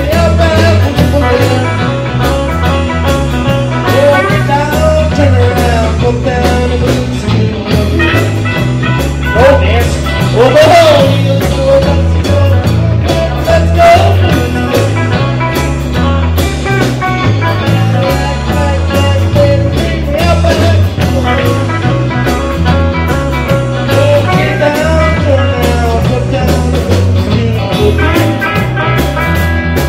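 Live rock-and-roll band playing: a steady, repeating bass line and drums under a lead line that slides and bends in pitch about ten seconds in.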